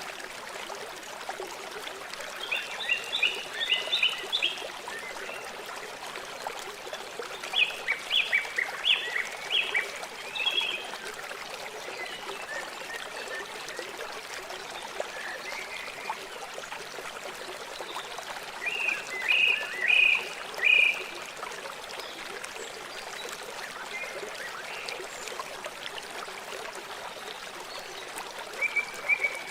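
River water flowing steadily, with three bursts of short, rapidly repeated high-pitched animal calls, and another starting near the end.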